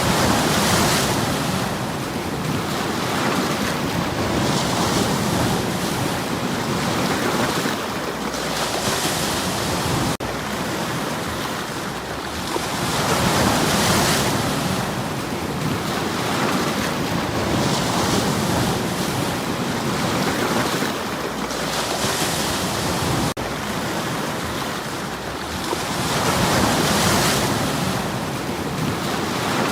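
Sea waves washing against shoreline stones: a steady rushing hiss that swells and eases with each wave, about every four seconds.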